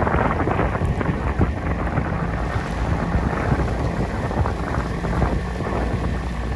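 Boat under way: its engine running steadily under wind buffeting the microphone.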